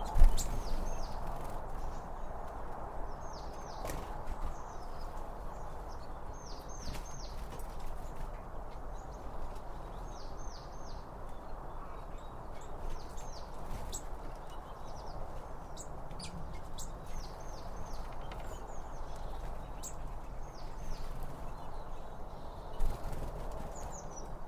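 Forest trail ambience: a steady rush of flowing water, with a small bird repeating quick descending chirps in clusters of three or four every few seconds. A few footsteps thump, loudest just at the start and again about 23 seconds in.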